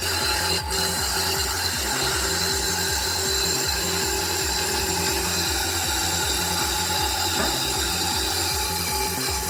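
A bladed wood-processing machine running steadily, with a regular low pulsing underneath.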